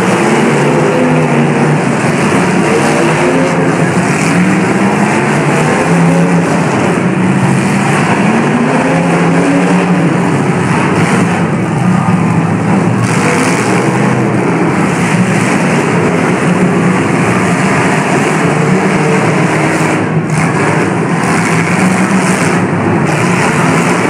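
Several demolition derby cars' engines running loudly at once, repeatedly revving up and down as the cars drive around the arena.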